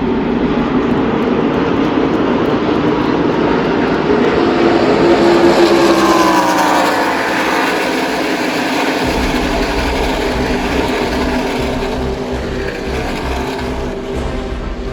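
NASCAR Craftsman Truck Series race trucks running at speed on the track, a loud steady engine drone. Around the middle one truck passes close by, its engine pitch dropping as it goes past.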